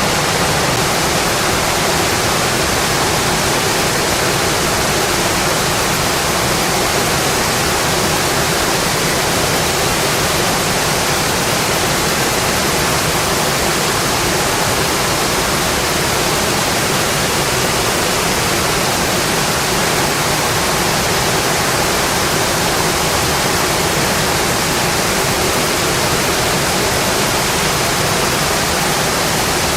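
Rain falling steadily, an even, unchanging hiss.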